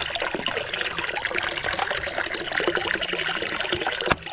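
Water trickling and splashing steadily with a crackly texture, and a single sharp click near the end.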